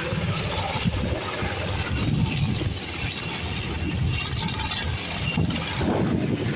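Firefighting aircraft passing over during water-drop runs: an engine drone with an uneven, gusty low rumble.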